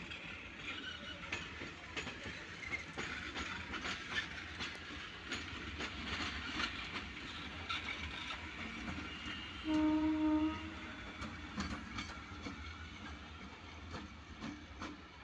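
Passenger train running past on track, its wheels clattering over the rail joints in a quick run of clicks over a steady rumble. About two-thirds of the way through comes one short horn note.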